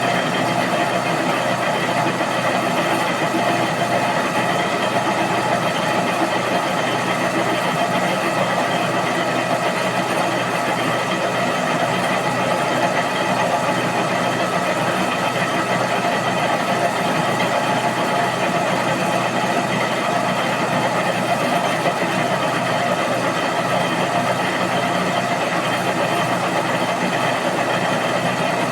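IZh Jupiter motorcycle's two-stroke twin engine idling steadily, its note unchanging throughout.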